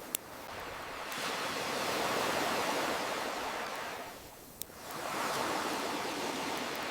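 Ocean waves washing in and drawing back in slow swells, loudest about two to three seconds in and again near the end. Two sharp pops of a crackling wood campfire cut through, one right at the start and one about four and a half seconds in, as the waves ebb.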